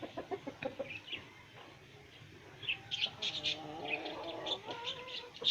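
Mixed calls from a backyard aviary: short high chirps and twitters, with a lower drawn-out call in the middle.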